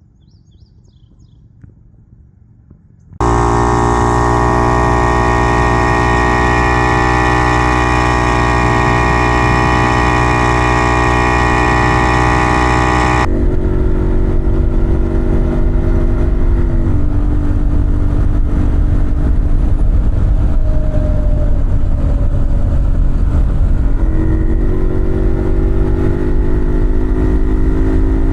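Old two-stroke motorcycle engine of a 1950s Puch 250 TF running while riding. It comes in abruptly about three seconds in after a quiet stretch, and its sound changes sharply about halfway through. Later its pitch drops and then rises again with throttle changes.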